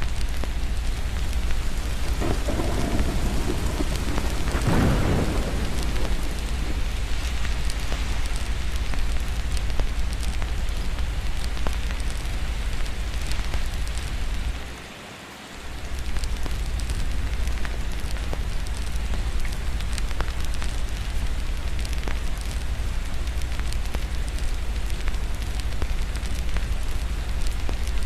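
Steady rain with a constant low rumble, and a roll of thunder that swells and fades about two to six seconds in. Halfway through, the low rumble drops out for about a second.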